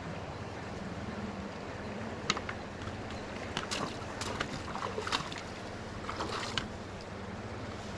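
Steady rush of flowing creek water, with a handful of short sharp splashes or knocks scattered through it.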